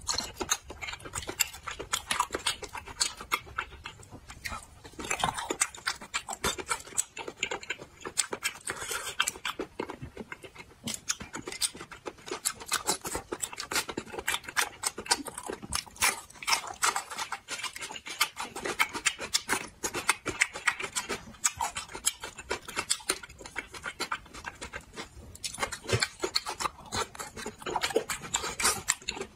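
Close-miked eating sounds: wet chewing, smacking and sucking with many quick mouth clicks, as a man eats spicy braised shellfish and sucks the meat from the shells.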